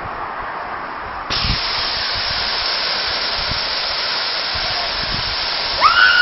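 Small waterfall's falling water and spray making a steady rushing hiss, which jumps suddenly louder a little over a second in. A short high-pitched cry near the end.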